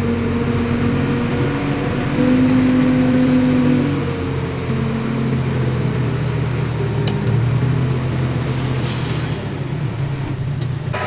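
Diesel engine of a dump truck or bulldozer running steadily, louder for about two seconds in the first half.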